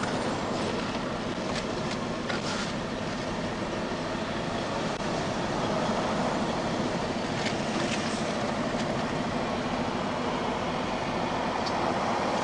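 Steady roar of highway traffic passing close by, swelling slightly as a heavier vehicle goes by about six seconds in.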